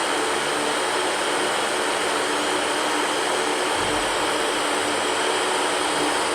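Electric fan running steadily: an even, unchanging whoosh of air with a faint hum underneath.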